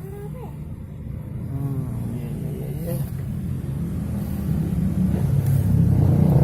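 A motor engine running with a steady low hum that grows louder toward the end, as of a vehicle drawing nearer.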